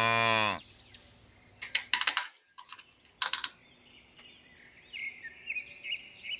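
A cow moos once, the call falling in pitch and ending about half a second in. Then come a few sharp clicks, and near the end a string of short bird-like chirps.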